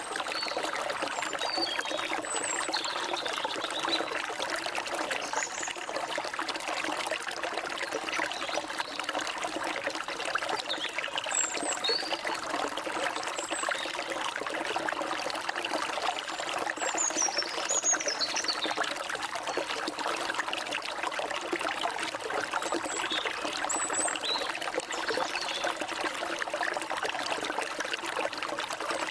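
A forest stream trickling and splashing steadily, with short, high bird chirps and whistles scattered throughout.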